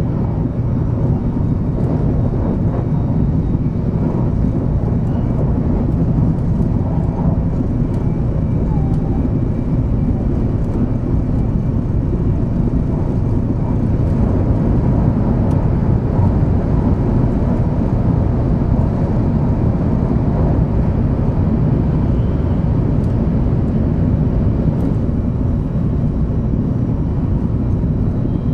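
Running noise of a 500 series Shinkansen train heard inside the passenger car: a steady low rumble at an even level.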